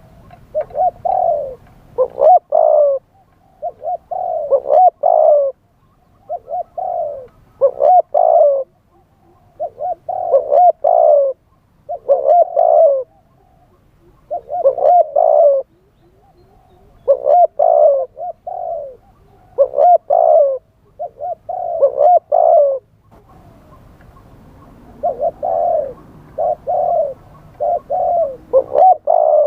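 Spotted dove cooing over and over, each phrase a short run of soft low notes, coming about once every two seconds with short pauses between.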